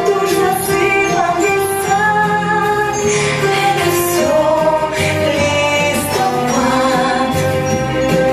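A song: singing voices over a musical backing track, continuing without a break.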